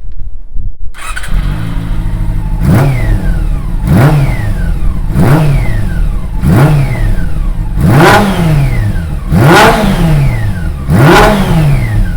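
Honda CB400 Super Four inline-four through a Yoshimura full titanium exhaust, idling and then blipped repeatedly: sharp revs that rise and fall back to idle about every second and a half, seven times.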